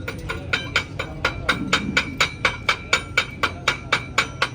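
Hammer blows on steel in a quick, even rhythm of about four a second, each strike ringing.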